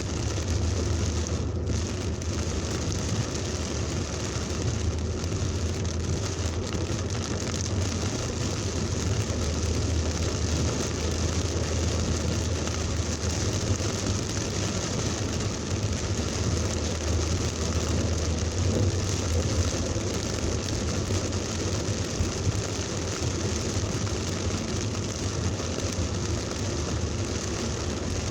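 Heavy thunderstorm rain falling steadily, with a steady low rumble underneath.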